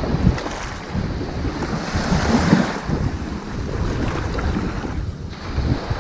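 Ocean waves washing onto a sandy beach, a wave surging up about halfway through and easing off again, with wind buffeting the microphone.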